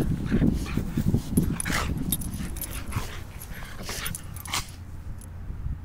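A dog close to the microphone, making a few short breathy sounds, with light metallic jingling.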